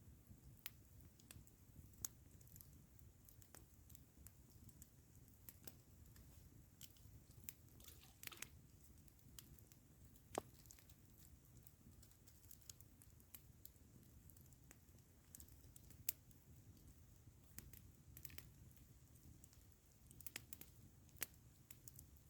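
Campfire crackling faintly: sparse, irregular sharp snaps and pops over a low steady rumble, with a louder snap about ten seconds in and another about sixteen seconds in.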